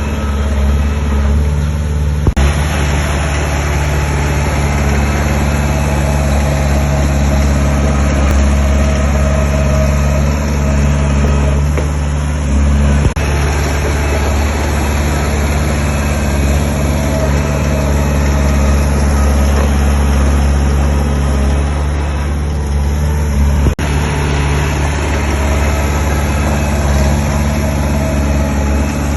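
Heavy diesel engine of earthmoving equipment running steadily, with the clatter and hiss of the machine's work growing louder and quieter over the course of the sound.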